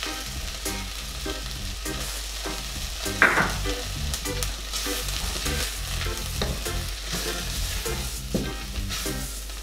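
Sliced onions and flour sizzling in butter in a stainless-steel pot while a wooden spoon stirs them, with one brief louder scrape of the spoon about three seconds in.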